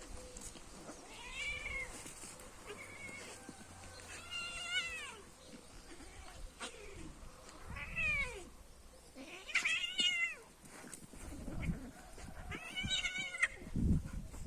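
Cat meowing repeatedly, about six calls that rise and fall in pitch, spread a second or two apart, with a few low thumps near the end.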